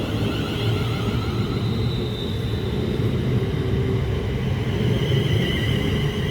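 London Northwestern Railway Class 350 electric multiple unit at the platform: a steady low rumble with several high, steady whining tones from its electric traction equipment.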